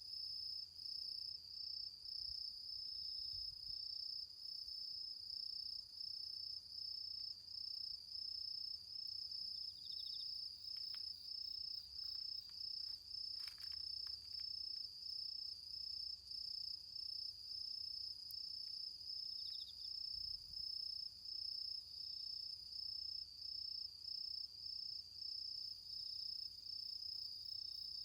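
Autumn crickets trilling: one steady, high-pitched trill with short regular breaks, and a few faint chirps from another insect. One faint crackle from the bonfire embers about halfway through.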